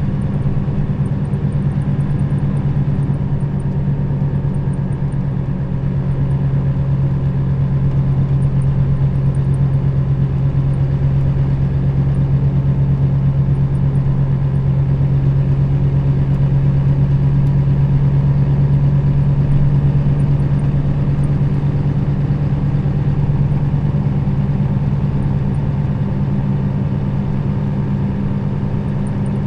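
Nissan Diesel KL-RA552RBN bus's diesel engine running steadily under way, a low even drone that grows a little louder around the middle and eases off again.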